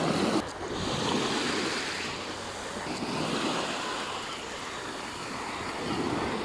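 Calm sea waves washing onto a beach: a steady hiss of surf that gently swells and eases.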